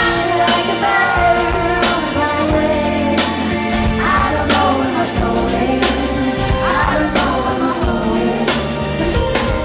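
Live pop band performance: a voice singing a bending melody over sustained band chords and drums.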